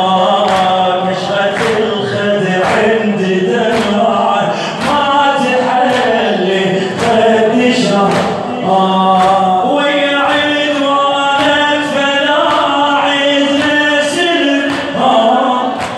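A male reciter chanting a Shia lament (latmiya) with voices of a group, over regular sharp strikes about twice a second.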